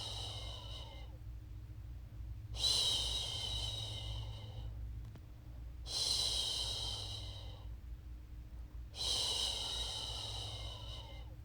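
A woman's voice making long, repeated "shhh" shushing sounds to soothe a baby to sleep. Each shush lasts about two seconds, starts loud and fades, with a new one about every three seconds: the tail of one, then three more.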